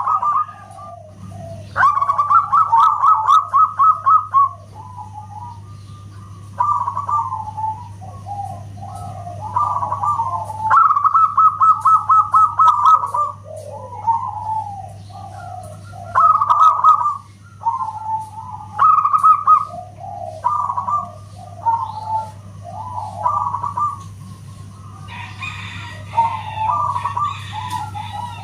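Zebra doves (perkutut) singing: repeated cooing phrases, each opening with a fast rattling trill and falling into several lower staccato coos, coming every few seconds. A steady low hum runs underneath.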